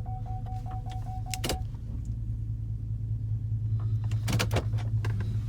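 Chevy Silverado's reverse parking-sensor warning beeping rapidly, about five beeps a second, then stopping about a second and a half in. Under it is the steady low hum of the truck idling, heard from inside the cab, with a few short clicks or knocks about a second and a half in and again about four seconds in.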